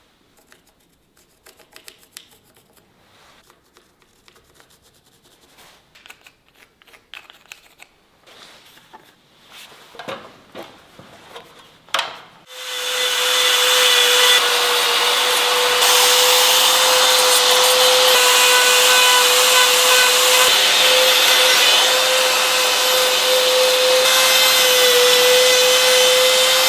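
Light clicks and taps of tool handling for about twelve seconds, then a power tool starts up and runs steadily against the wood carving, with a constant whine over a loud rasping noise.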